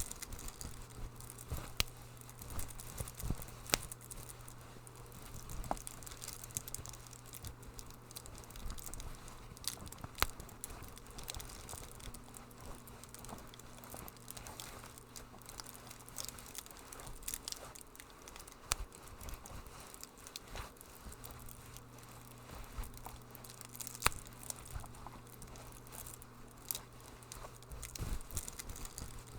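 Wood fire crackling in a fireplace: irregular sharp pops and snaps, with a low steady hum underneath.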